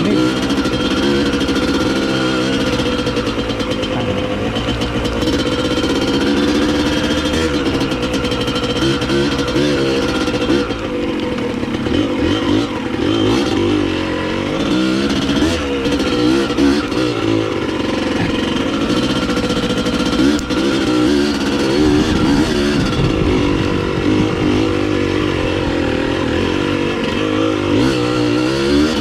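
Dirt bike engine running and revving up and down as the bike is ridden, over a steady noisy hiss.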